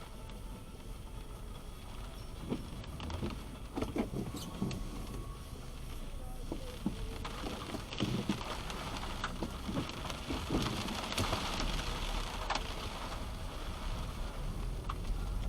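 Car interior while driving on a wet road in the rain: a steady low road rumble and tyre hiss, the hiss swelling for a few seconds midway, with scattered light taps of rain on the car.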